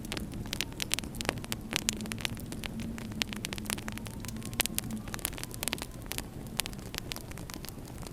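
Wood fire crackling in a fireplace: frequent sharp pops and crackles over a steady low rumble.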